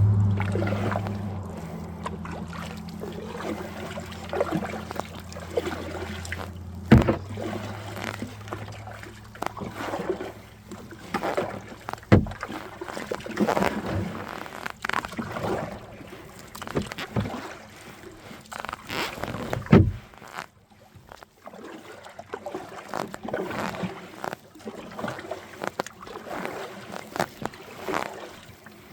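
Kayak paddle strokes dipping and splashing in the water over and over, with three sharp knocks along the way. A low engine hum is loudest at the start, then fades and stops about twenty seconds in.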